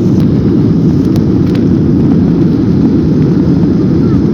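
SpiceJet airliner's engines during take-off: a loud, steady low rumble.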